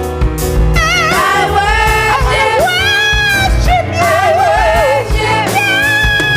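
Live gospel worship music: a lead singer's voice sliding through wavering runs and vibrato over a band with a steady beat.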